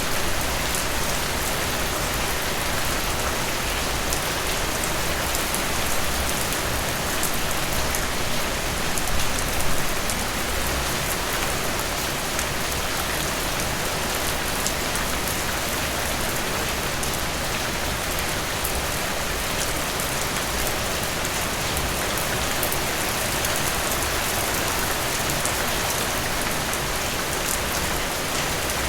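Steady rainfall: a continuous hiss of rain with individual drops ticking sharply through it, swelling slightly louder for a moment about nine seconds in.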